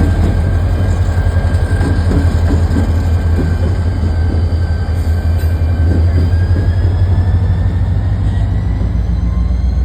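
Freight train with a diesel locomotive rumbling steadily, with a faint thin wheel squeal in the background.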